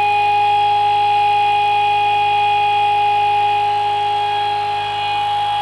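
Homemade pulse motor running steadily at about 3075 rpm on 24 volts, fully loaded by its four shorted alternator coils: a constant whine made of several steady tones.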